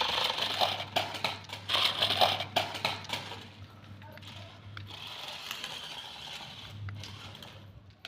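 A small electric motor whirring in bursts, with sharp clicks and rattles: a short burst near the start, another about two seconds in, and a softer, longer run about five seconds in.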